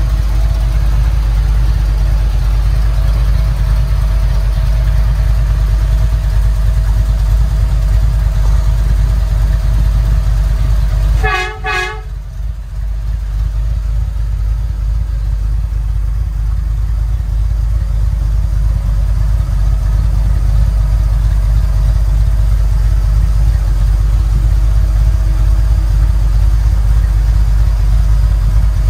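Chevy 350 V8 engine idling steadily in a 1962 Land Rover Series IIA. A little over a third of the way in, a short double beep sounds.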